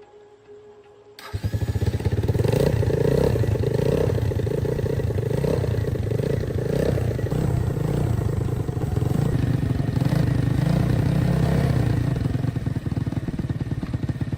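Small motorcycle engine, freshly rebuilt, starting suddenly about a second in and then running steadily, with a few short throttle blips in the first seconds.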